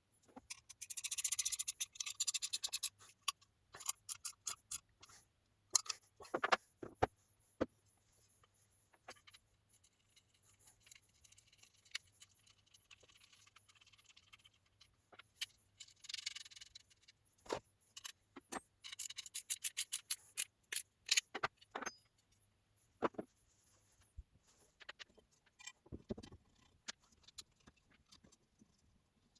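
Hand work on metal parts: scattered clicks and clinks, with three short rasping bursts.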